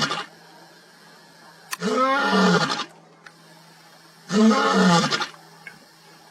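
Lion roaring: deep calls of about a second each, repeated about every two seconds, each one dropping in pitch at the end. Two full calls, with the tail of a third at the start.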